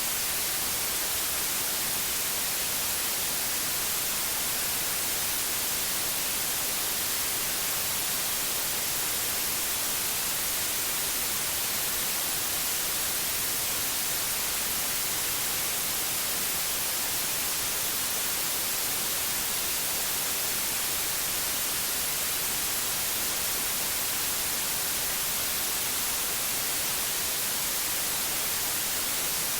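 Steady white noise: an even, unchanging hiss, strongest in the high frequencies, with no other sounds.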